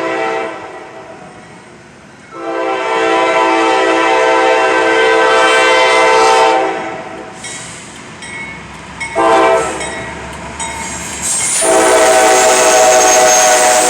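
Locomotive air horn sounding the grade-crossing signal as a train passes: a blast trailing off at the start, then a long blast, a short one and another long one. Wheels and rail noise rise under the last blast.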